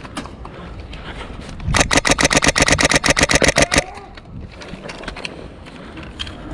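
Airsoft gun firing a full-auto burst of about two seconds, a rapid even run of shots at roughly ten a second, starting about two seconds in, over a low rumble of wind.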